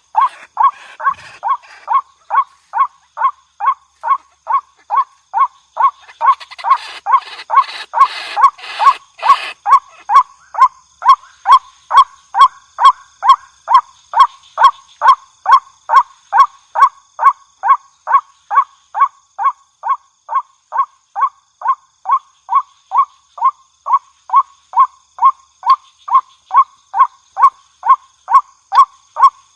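White-breasted waterhen (ruak-ruak) calling: short notes repeated evenly about twice a second, on and on without a break. A rustling noise runs under the calls from about 6 to 10 seconds in.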